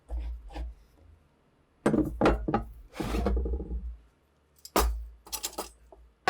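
Rifle parts being handled on a workbench: several bursts of knocks, scraping and rubbing with dull thuds, and a sharp click at the end.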